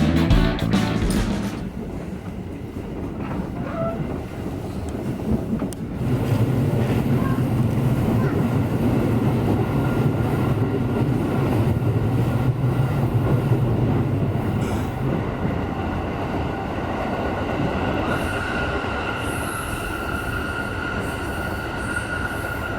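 Subway train running, heard from inside the car: a steady rumble of the wheels on the rails that grows louder about six seconds in, with a thin high whine through the second half. Guitar music fades out in the first second or two.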